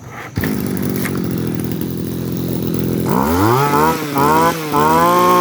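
Echo 240 two-stroke brush cutter engine running: a steady idle begins abruptly, then about three seconds in the throttle is opened and it revs up and down several times.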